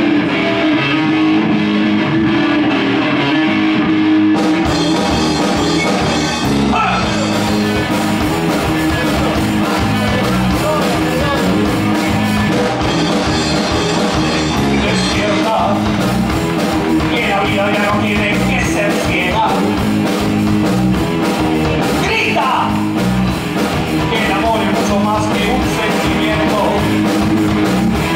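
Rock band playing live, with guitars and singing. The sound grows fuller about four seconds in.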